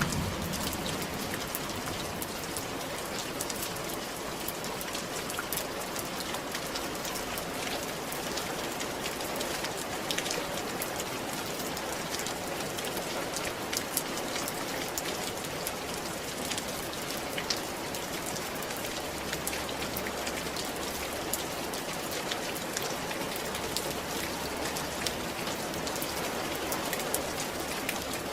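Steady rain falling on a roof: a continuous hiss of rain with many single drops striking sharply through it.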